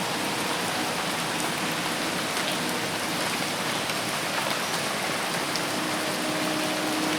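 Dense, steady rain falling in a forest: a constant hiss of drops on leaves and ground.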